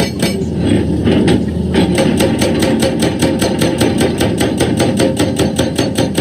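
Excavator-mounted hydraulic rock breaker hammering rock in rapid, even blows, about five or six a second, over the machine's steady engine rumble.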